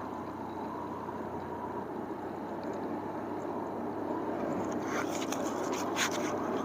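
Motorcycle engine running steadily on the move, mixed with wind and road noise. About five seconds in, scratchy crackling clicks join it.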